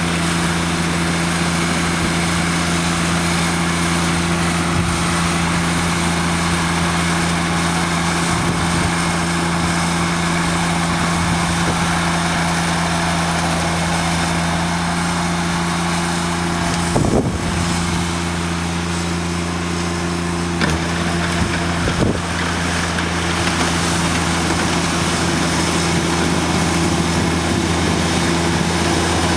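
John Deere tractor engine running steadily while it drives a snowblower through deep snow, with a couple of brief knocks partway through.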